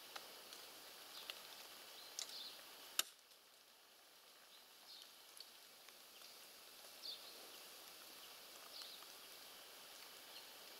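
Near-silent outdoor quiet with faint, scattered short high chirps from small birds, and one sharp click about three seconds in.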